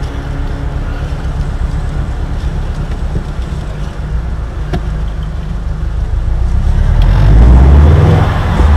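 Subaru WRX STI's turbocharged flat-four engine heard from inside the cabin as the car rolls along, a steady low rumble. About seven seconds in the sound swells noticeably louder.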